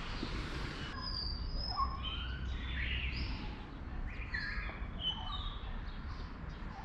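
Several small birds chirping and calling, with short high notes and quick glides overlapping, starting about a second in, over a faint low rumble.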